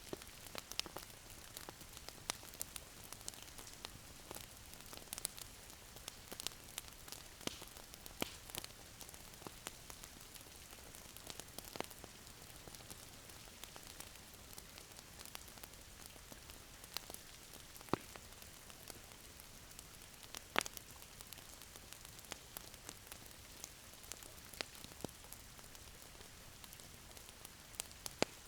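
Wood fire crackling in a fireplace: a steady soft hiss with irregular sharp pops and snaps, two louder pops past the middle.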